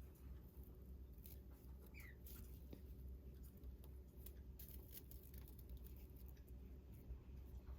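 Near silence: a steady low hum with a few faint, scattered clicks and ticks.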